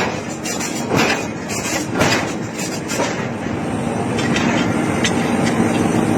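Heavy forging blows on hot iron, about one a second for the first three seconds, then giving way to a steady, slowly rising mechanical rumble.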